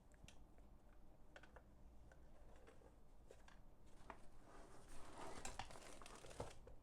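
Faint scattered clicks and soft rustling from handling the kit's charger, batteries and their packaging, with a stretch of rustling about five seconds in.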